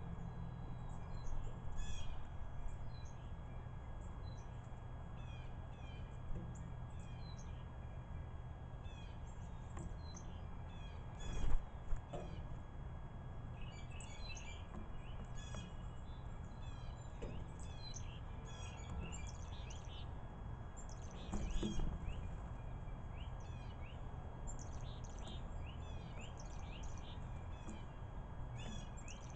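Small wild birds chirping with many short, overlapping notes, busiest in two spells partway through and near the end, over a steady low rumble. A sharp knock comes about eleven seconds in, and a softer bump about twenty-one seconds in.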